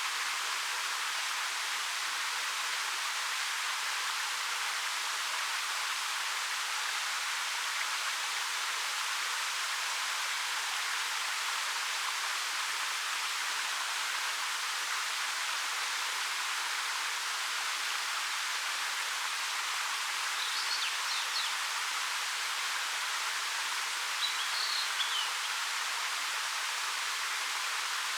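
Waterfall water falling about 13 m over dark rock, a steady even rushing hiss. A small bird chirps briefly twice, about two-thirds of the way through and again near the end.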